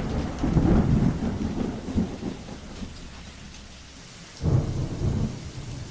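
Stormy weather: strong wind with rain, and heavy low rumbling that surges in gusts, the sharpest about four and a half seconds in.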